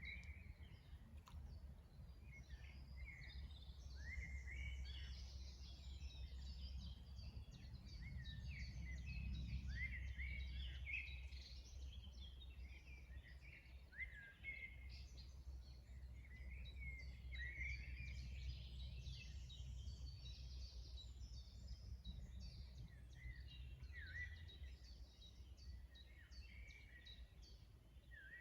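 A chorus of songbirds singing and chirping, many short overlapping notes and trills, over a steady low rumble.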